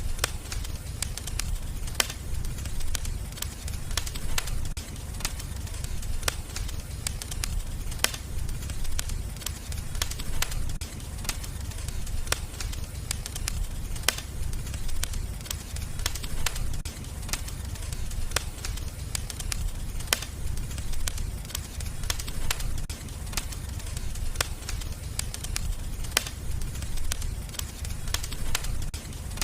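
Wood fire crackling in a fireplace: a steady low rumble of burning with frequent sharp pops and crackles, a handful of them louder than the rest.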